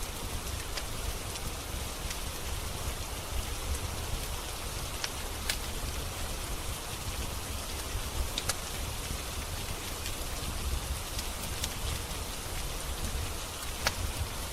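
Steady rain hiss with a low rumble underneath, and a few sharp, scattered pops from a crackling wood fire.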